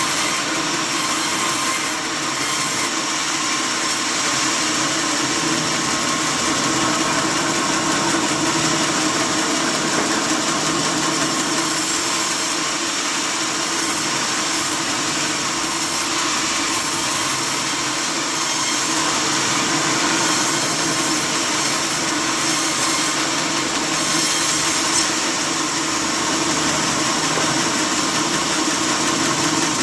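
Sawmill machinery running steadily, a continuous mechanical drone with a hiss high above it.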